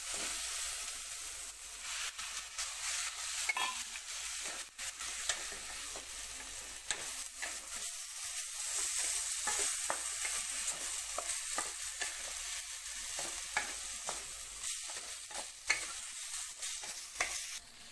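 Chicken pieces sizzling in oil with onion-tomato masala in a stainless steel kadai, stirred with a spatula that scrapes and taps against the pan again and again.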